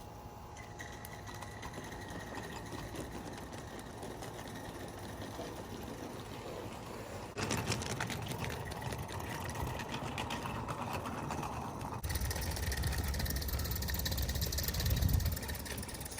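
Mamod Mk III live steam locomotive running with rail cars: rapid, even steam chuffing that gets louder in two sudden steps, about seven seconds in and again about twelve seconds in.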